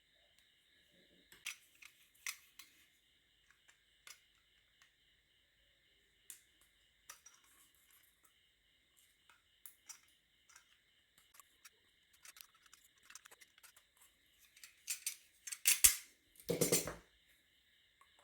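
A plastic bottle being handled and cut: scattered sharp clicks and snips, with a louder burst of plastic crackling near the end.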